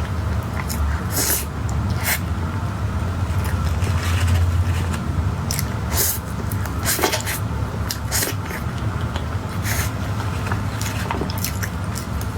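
Close-miked eating sounds: wet squishing and irregular smacking clicks from chewing, over a steady low hum.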